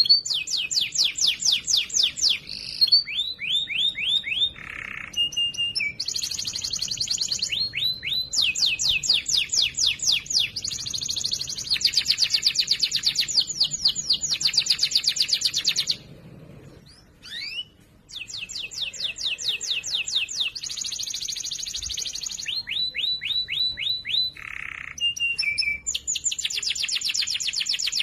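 Domestic canary singing a fast song: rapid trills of repeated downward-sweeping notes, dense rolls and a few lower held notes. The song breaks off for about two seconds a little past the middle, then resumes.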